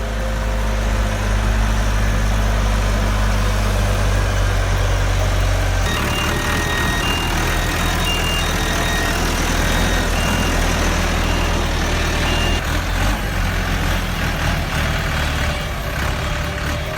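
Heavy vehicle engine running steadily with a deep drone. About six seconds in the sound changes abruptly to another engine running, with short high beeps sounding at intervals.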